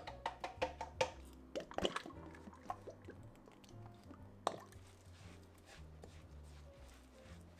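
Soft background music, over a quick run of sharp wet clicks and plops from kitchen food preparation in the first three seconds, and one more click about four and a half seconds in.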